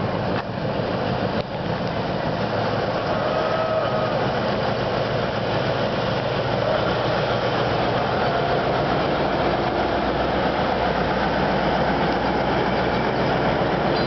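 Diesel locomotive engine running steadily as it hauls a train of passenger carriages across a timber trestle bridge, with the rumble of the carriages rolling past.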